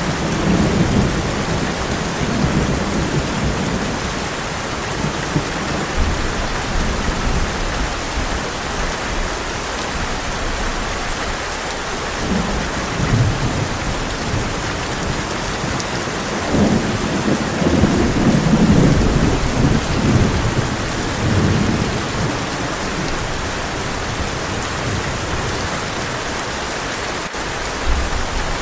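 Heavy rain drumming on a tin roof as a steady hiss, with rolling thunder rumbling low at the start, briefly again a little before halfway, and most strongly about two-thirds of the way through.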